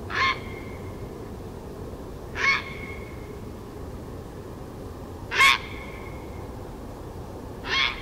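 Four short, harsh bird calls, two to three seconds apart, each trailing off briefly, the third the loudest.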